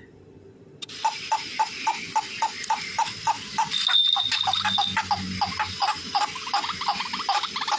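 Bird chirping in a rapid, even series of short notes, about four a second, starting about a second in, with a thin high whistle held briefly in the middle.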